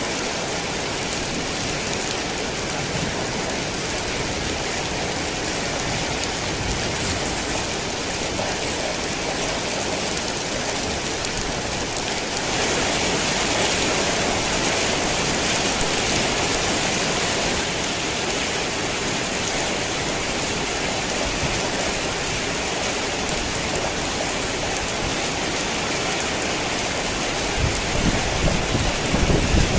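Heavy rain falling steadily, growing louder for a few seconds about halfway through. A low rumble of thunder starts near the end.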